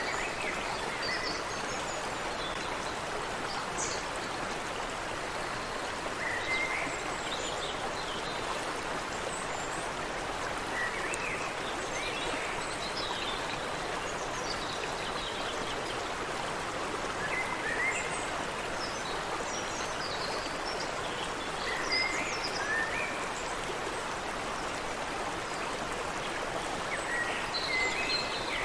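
Steady rushing of water in a creek, with birds chirping now and then: short rising calls that come in little groups every few seconds.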